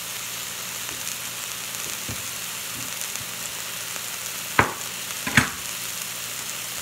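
Ground-beef patties with onions and mushrooms sizzling steadily in a cast-iron skillet, in their own rendered fat. Two sharp knocks a little under a second apart come near the end.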